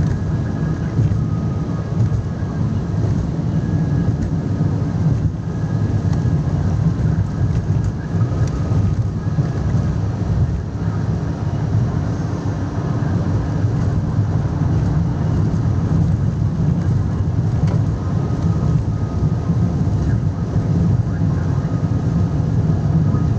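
Steady engine and road rumble of a moving vehicle, even and unbroken, heard from on board.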